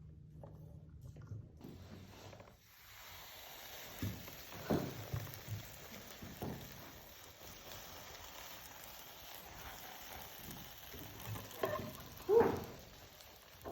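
Scattered short knocks and clicks of things being handled, over a steady faint hiss, with the loudest knock near the end.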